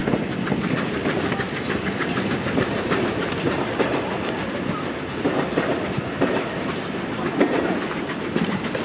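Vintage ČSD passenger coaches rolling away over the track. The wheels clatter over rail joints and points in many rapid clicks, and the sound slowly fades as the train draws off.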